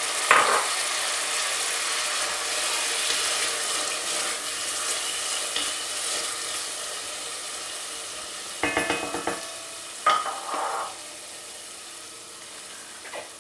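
Beef cubes and chopped onions sizzling in hot oil in a pot while a wooden spoon stirs them, with a few short louder knocks or scrapes near the start and about nine and ten seconds in. The sizzle grows gradually quieter toward the end.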